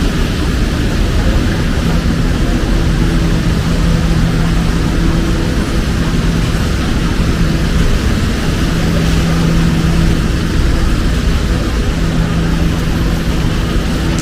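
Heavy rain pouring steadily, with a low engine hum that fades in and out over it.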